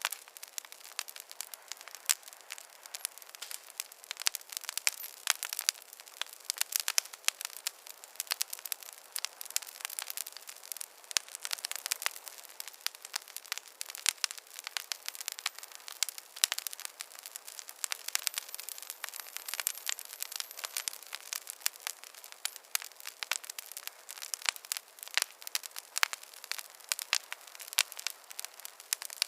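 Fireplace wood fire crackling: a dense, irregular stream of sharp pops and snaps, crisp and thin with no low rumble.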